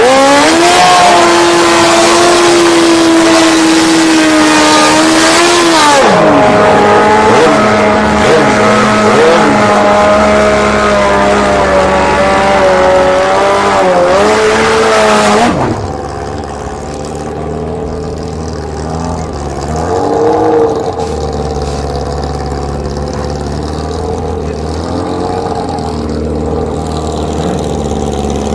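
Drag-racing motorcycle engines held at high, fairly steady revs, very loud, with a hiss over them. One engine drops away about six seconds in and the rest cuts off about halfway through. After that, engines run at a low idle with a short rev blip.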